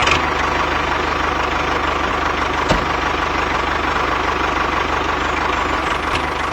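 A small engine running steadily at idle, with fine even pulsing and a single click about halfway through.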